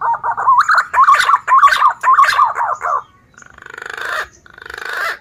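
Male punai daun green pigeon singing: a run of fluting, wavering whistled notes for about three seconds, followed by two hoarse, breathy swells that each grow louder over about a second.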